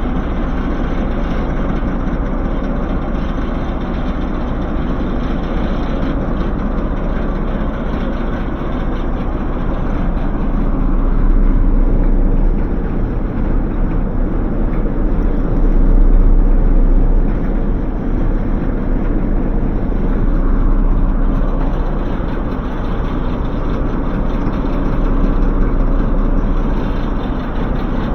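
Heavy train engine running steadily at idle, with a low rumble that swells a few times.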